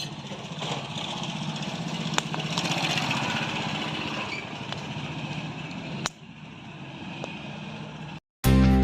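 Steady background vehicle noise with a low hum, broken by a few sharp clicks. Near the end it cuts out and music starts abruptly.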